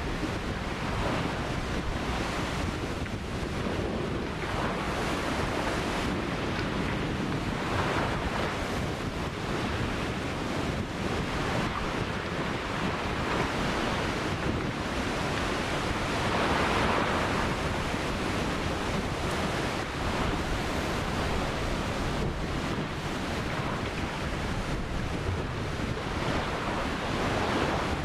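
Ocean surf: a continuous wash of waves breaking and rushing up the shore. It swells louder every several seconds as each wave breaks, strongest about two-thirds of the way through.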